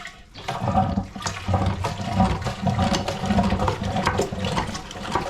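Toilet cistern being flushed: water rushing and gurgling down into the bowl, starting about half a second in. The water supply has been shut off at the isolation valve, so the flush drains the cistern.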